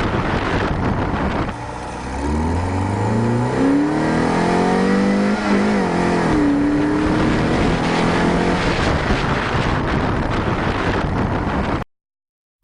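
1988 Ford Escort GT's four-cylinder engine pulling under acceleration, heard through heavy wind and road noise from a camera on the car's front. Its pitch climbs for several seconds, dips briefly, then holds steady at a higher pitch before the sound cuts off abruptly near the end.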